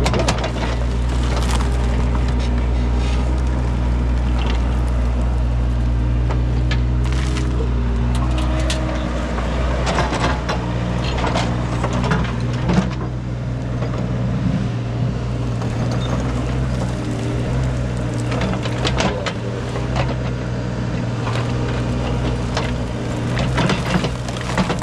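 Engine of a digging machine running steadily, with repeated scrapes and knocks as its bucket digs through buried debris of wood and metal.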